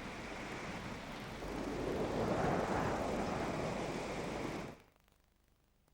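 A steady rushing noise that swells about one and a half seconds in, then cuts off abruptly near the end, leaving near silence.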